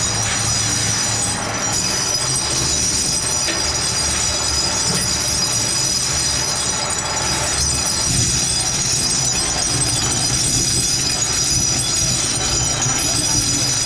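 Workshop machinery running steadily, with a continuous high-pitched squeal over a low hum.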